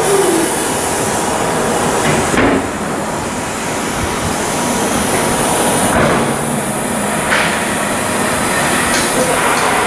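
Continuous shipyard work noise from metal fabrication, a steady machinery hiss with several sharp metal knocks spread through it.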